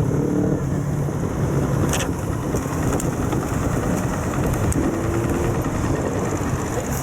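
Steady wind noise on the microphone while cycling, mixed with road traffic.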